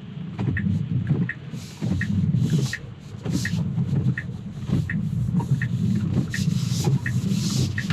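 Turn signal ticking steadily inside a Tesla's cabin, about one tick every 0.7 s, over a low steady rumble, with a few swishes of hiss.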